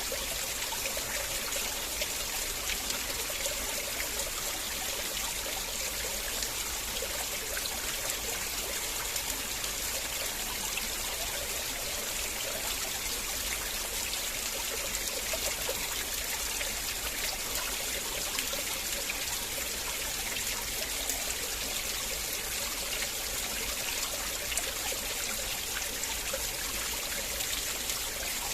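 River water flowing in a steady, unbroken rush with no change over the whole stretch.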